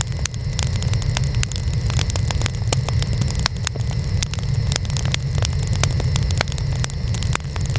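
Burning wood fire crackling, with frequent sharp irregular pops and snaps over a steady low rumble.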